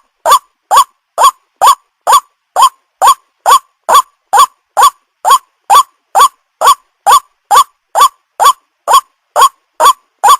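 White-breasted waterhen (ruak-ruak) calling: a short, rising note repeated at an even, unchanging pace of about two a second, each call alike.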